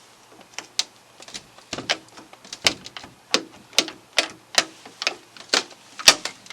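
A steady series of sharp knocks or crunches, about two a second, a dozen or so strikes in all.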